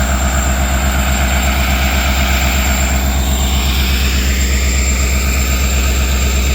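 Diesel locomotive engine idling: a loud, steady low hum with a rapid even throb.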